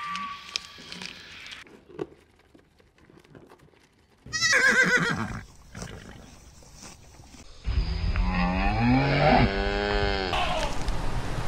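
Horse whinnying: a short, quavering neigh about four seconds in, then a longer, louder whinny that rises and falls from about eight seconds to ten.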